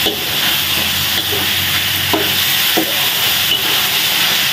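Chicken pieces frying in an aluminium wok with a steady sizzle while a wooden spatula stirs and turns them, with a few light knocks of the spatula against the pan.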